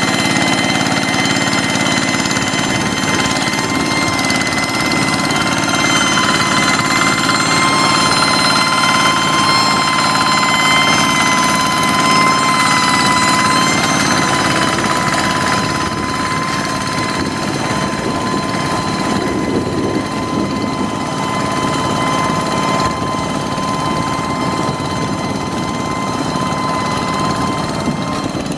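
Hand tractor engine running steadily, with a high steady whine over its rumble. It is a little louder in the first half and eases off slightly about halfway through.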